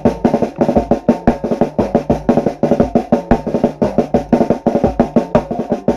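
Snare and bass drums playing a fast, even drum-line style rhythm, several hits a second, over a steady low pitched tone.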